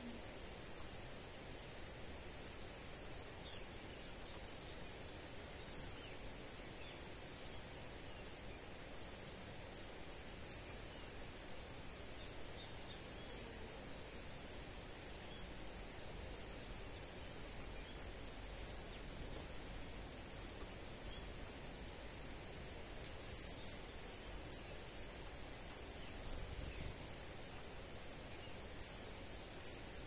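Small birds giving short, very high-pitched calls, each a quick downward stroke. The calls come singly at irregular intervals of a second or two over a steady background hiss, with a tight burst of three louder calls about three-quarters of the way through.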